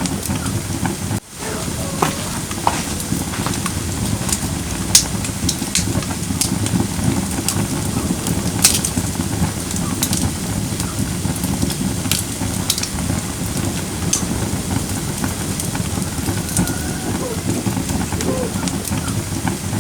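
Firewood burning in a fire pit: a steady low rushing of flames with scattered sharp crackles and pops from the wood. The sound drops out briefly about a second in.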